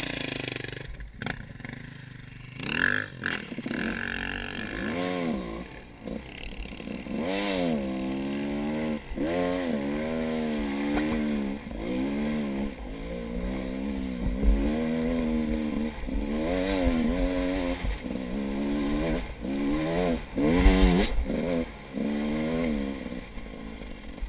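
A few knocks and a scrape, then an off-road motorcycle engine revved up and down over and over, about once a second.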